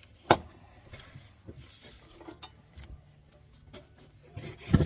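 Tools and metal parts being handled at a workbench: a sharp knock about a third of a second in, scattered light clicks, then a louder clatter near the end.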